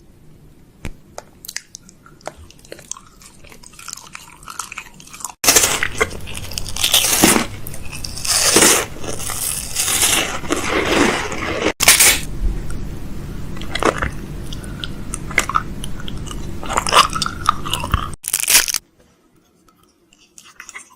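Close-miked ASMR crackling and crunching, wet and crisp. It starts as faint scattered clicks, then turns loud and dense in segments that begin and end abruptly, and drops away near the end.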